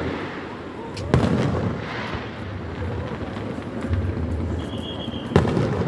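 Fireworks going off: two sharp bangs, one about a second in and one near the end, over ongoing crackling and rumbling.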